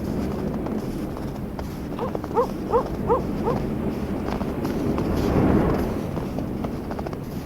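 An animal calling four short rising notes in quick succession, over a steady low wind rumble that swells in a brief gust about five and a half seconds in.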